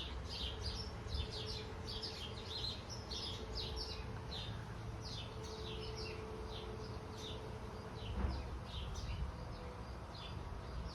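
Small birds chirping: a busy run of short, high chirps that each sweep downward, several a second, over a faint steady hum that stops about eight seconds in.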